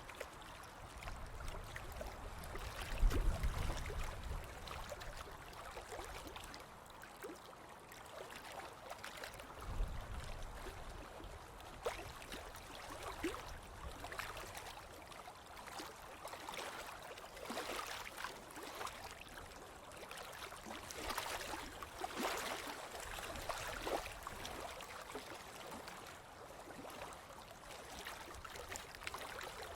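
Ocean waves washing and fizzing on a beach, with many small crackles of breaking foam. Short low rumbles come about three seconds in and again about ten seconds in.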